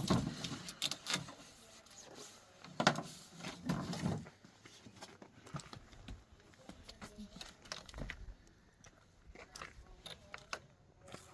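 Scattered light knocks and crackling handling noises, louder in the first four seconds, then fainter scattered ticks.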